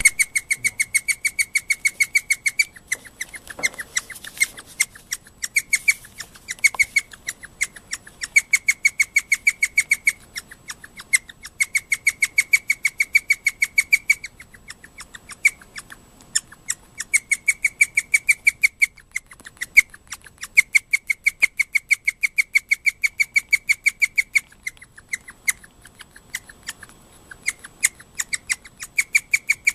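Guinea pig calling in long runs of rapid, high-pitched, alarm-like pulses, several a second, broken by short pauses. It is excited, set off by a cagemate's shrill squealing.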